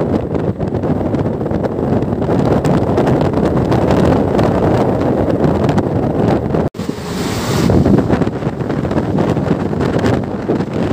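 Wind buffeting the microphone over the running rumble of a moving passenger train. The sound cuts out for an instant about two-thirds of the way through, then a brief brighter hiss follows.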